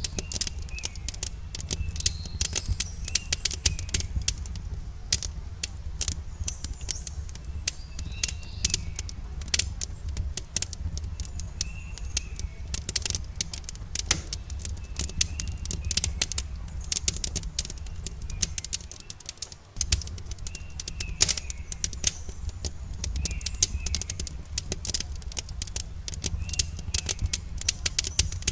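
Wood campfire crackling with many sharp irregular pops over a steady low rumble, while small birds chirp in the background. The fire sound dips briefly about two-thirds of the way through.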